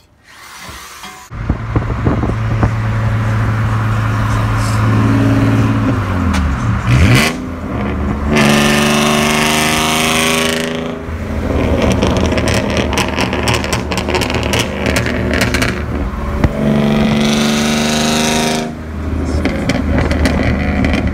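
Loud car engine and exhaust starting abruptly about a second in, then running and accelerating, with the pitch climbing twice as it revs up through the gears.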